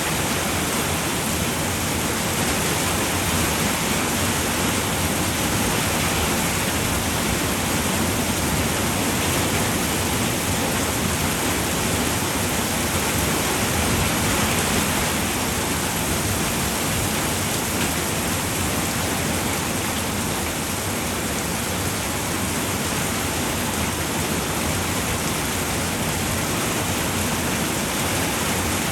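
Steady, even rain falling on a roof.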